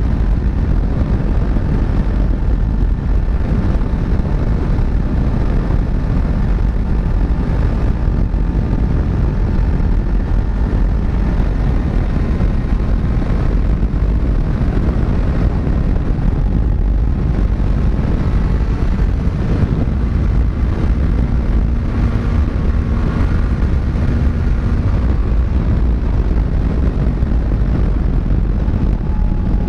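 Kawasaki Z900 inline-four motorcycle riding at speed: a steady, loud rush of wind over the microphone with the engine's drone running underneath and shifting slowly in pitch.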